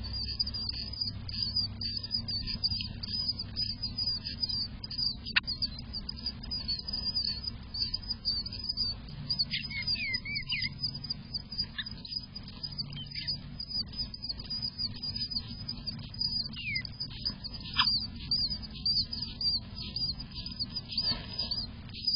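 Eastern bluebird nestlings begging inside the nest box: rapid, continuous high chirping, with a few lower squeaky sliding notes and light rustling and clicking as the parents feed them.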